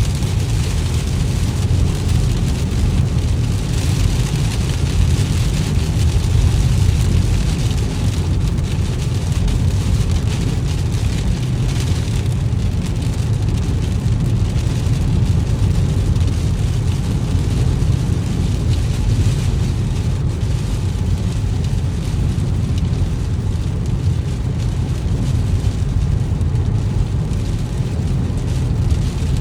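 Steady low road and engine rumble of a car driving in the rain, with a lighter hiss of tyres on wet road and rain on the car.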